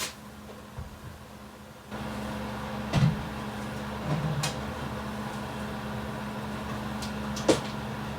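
A steady motor hum with one low, fixed tone starts suddenly about two seconds in, with two sharp knocks over it, the first about a second after the hum starts and the second near the end.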